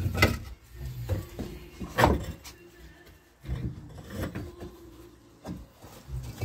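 Stones knocking and scraping as they are handled and packed into place: a handful of separate knocks, the loudest about two seconds in.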